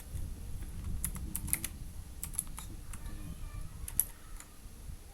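Typing on a computer keyboard: irregular keystrokes, several in quick succession, then a few scattered taps.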